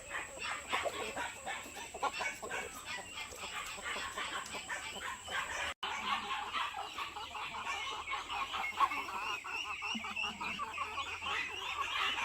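A flock of chickens clucking and calling over one another in many short, overlapping calls. The sound cuts out for an instant about halfway through, then the clucking carries on.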